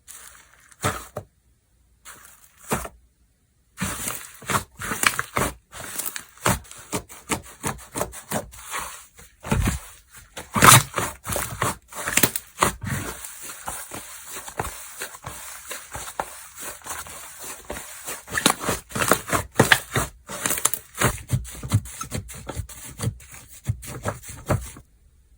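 Slime being squeezed, stretched and pressed by hand, giving rapid irregular clicks and pops. There are a few at first, then a dense stream that stops shortly before the end.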